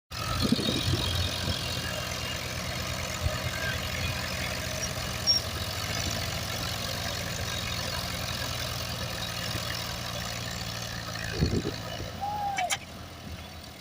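Tractor engine running steadily at idle, getting a little quieter near the end.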